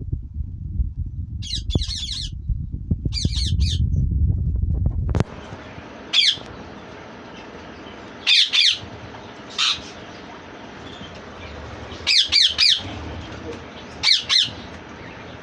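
Green ringneck parakeets screeching: short, harsh, high calls, often in quick runs of two or three, repeated every couple of seconds. During the first five seconds a low rumble of wind or handling noise sits under the calls, then stops abruptly.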